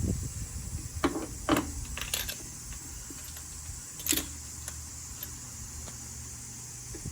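A handful of short metallic clinks from hand tools during spark plug work, spaced irregularly about a second, a second and a half, two and four seconds in, over a low steady hum.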